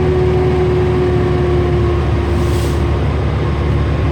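Heavy truck engine running steadily under way, a loud low drone with a steady hum over it, and a brief hiss about two and a half seconds in.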